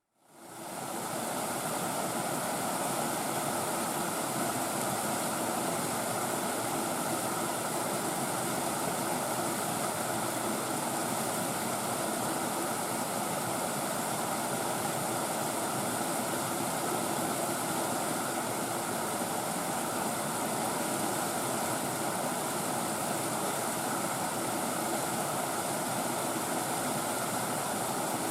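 Mountain stream tumbling down a chain of small waterfalls over bedrock: a steady rush of water that fades in over the first second.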